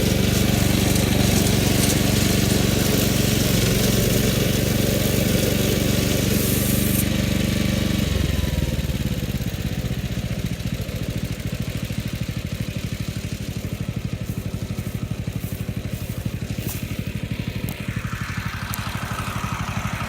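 Billy Goat brush mower engine running steadily, then dropping to a slower, quieter run about eight seconds in. It runs after its slipped drive belt has been refitted, and the repair has worked.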